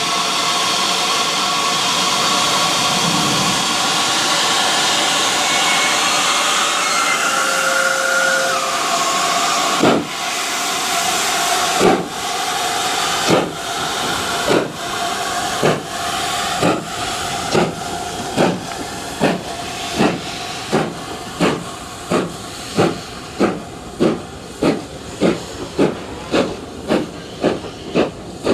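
Steam locomotive hissing steam, then pulling away: its exhaust chuffs start about ten seconds in, about two seconds apart, and quicken steadily to nearly two a second as it gathers speed.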